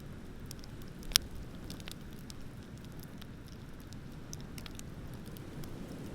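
Wood bonfire crackling: scattered small crackles and one sharp, loud pop about a second in, over a steady low rumble.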